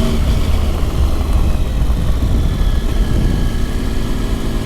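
Motorcycle engine running steadily under way on a mountain climb, under a heavy low rumble of wind buffeting the microphone.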